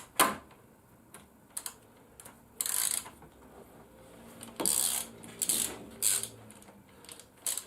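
Handling sounds of a handlebar mounting bracket being fitted and tightened: a sharp click right at the start, then several short scrapes and clicks.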